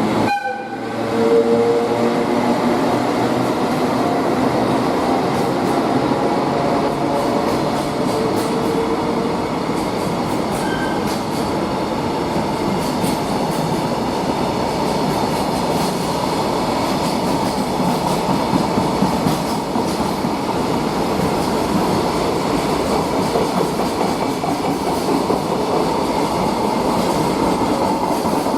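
Container freight train rolling past on the rails: a steady rumble of wheels with some clickety-clack, and a faint brief wheel squeal now and then.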